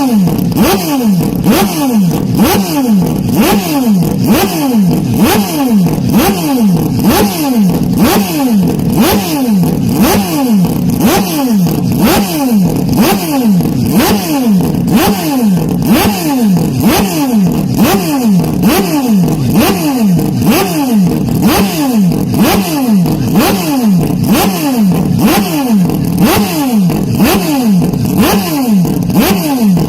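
Hyundai Elantra N engine sound, heavily boosted and distorted, with its pitch dropping in short sweeps that repeat evenly about three times every two seconds.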